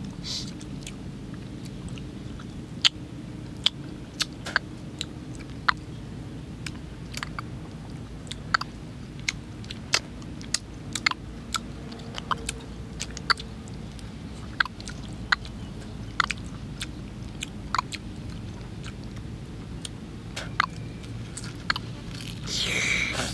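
A person chewing grilled fish close to the microphone, with irregular sharp crunches and wet mouth clicks throughout. There is a louder bite just before the end.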